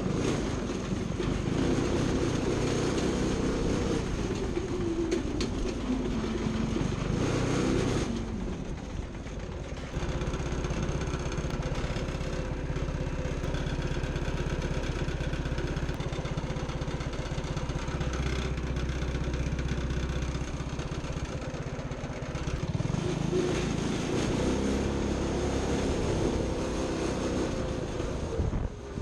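An engine running, its pitch rising and falling as it revs up and down, with a steadier stretch in the middle; the sound breaks off abruptly several times between short clips.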